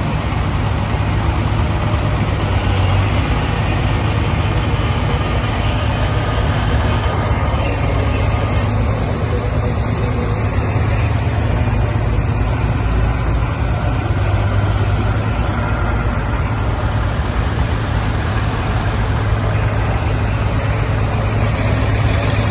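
Tractor's diesel engine running steadily with a low, even hum.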